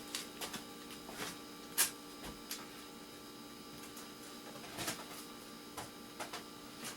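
Light clicks and knocks of small electronic scrap parts being handled and set down, scattered irregularly, the sharpest about two seconds in. A faint steady hum runs underneath.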